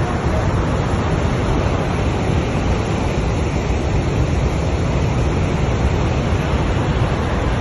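Niagara Falls: the loud, steady rush of a great waterfall, heaviest in the low end, with no breaks.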